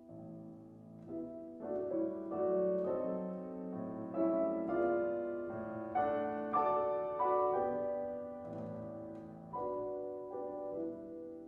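Solo piano playing a classical piece, chords and melody notes ringing together, growing louder through the middle and easing off near the end.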